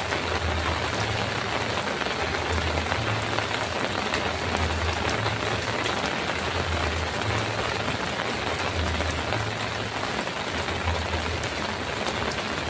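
Heavy rain falling steadily on a metal roof, an even hiss of drops with no thunder, and a low hum pulsing underneath about once a second.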